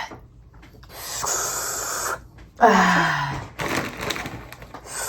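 A person's breathy gasps and wheezing exhalations, three long breaths with a short falling vocal sound at the start of the second.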